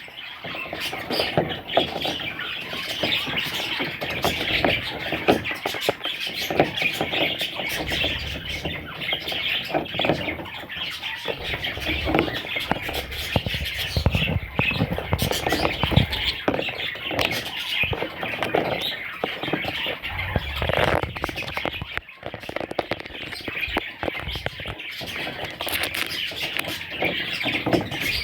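Budgerigars chattering and chirping continuously, with short squawks mixed in.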